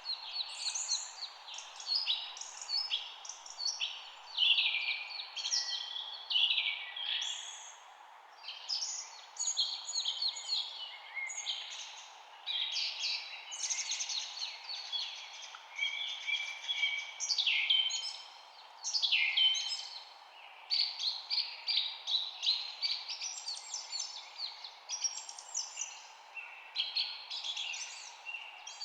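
Several songbirds chirping and singing at once, dense overlapping short high calls throughout, over a steady low background hiss.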